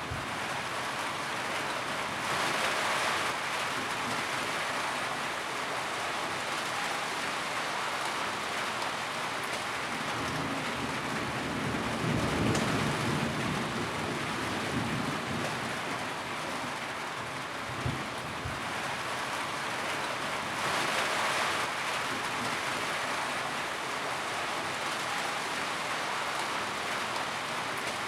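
Steady rain falling on a tin roof, a dense even hiss that swells louder a few times, with a single sharp tap about two-thirds of the way through.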